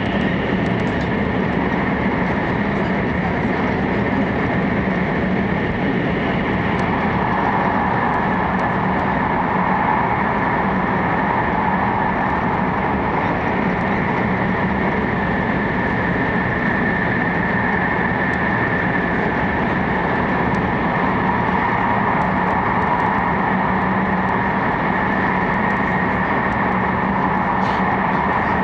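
Cabin noise of an E4 series Max Shinkansen running at speed through a long tunnel: a steady, loud rumble of wheels and air with steady hum tones, a higher hum growing stronger about seven seconds in.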